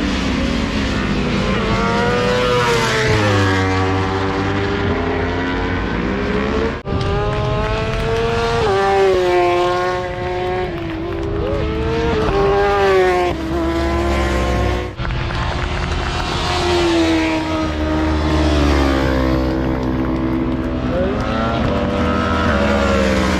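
Motorcycle engines revving hard, the pitch climbing through the gears and dropping again over and over, with two sudden breaks in the sound about 7 and 15 seconds in.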